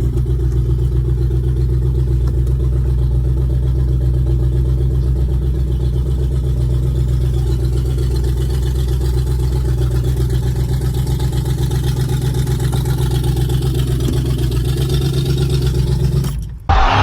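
1998 Land Rover Discovery 1's freshly rebuilt petrol V8 running steadily at idle, with an even, pulsing exhaust beat. It cuts off abruptly near the end.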